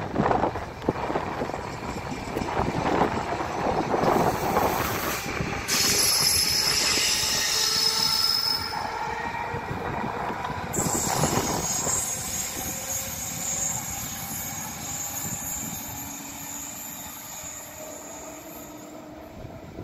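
Trenitalia regional train of double-deck coaches with an E.464 electric locomotive rolling past, its wheels squealing in high, shifting tones for a few seconds around the middle. Its running noise then fades as it moves away.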